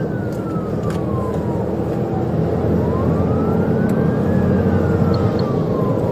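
Police siren on a slow wail, rising and falling in pitch twice, over a loud, steady rush of engine and road noise from a car driving at about 100 mph.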